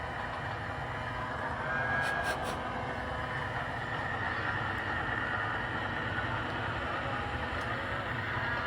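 Sound-equipped model diesel locomotive's onboard speaker playing a steady diesel engine sound, running after its startup sequence.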